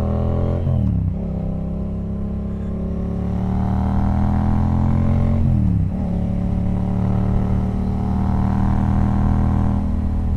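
Yamaha FZ-07's 689 cc parallel-twin engine pulling under acceleration, its pitch rising steadily in each gear. It drops sharply at two upshifts, about a second in and again about halfway through.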